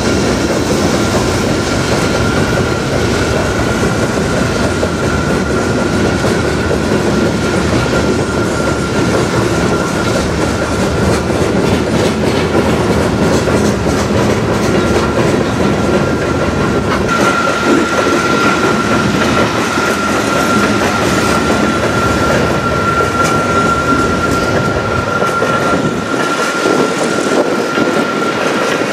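Freight train cars rolling past at speed, covered hoppers and then lumber-loaded centerbeam flatcars, their wheels clicking and rumbling over the rails. A steady high whine runs through it and grows louder a little past halfway.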